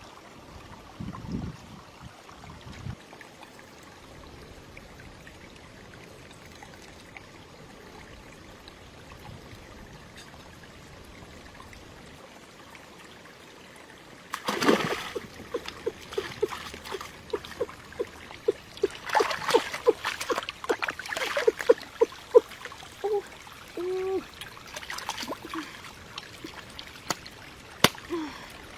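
Water trickling steadily, with a few dull thuds near the start. About halfway through come splashes and sharp clatters of handling in the water, with a quick run of regular ticks.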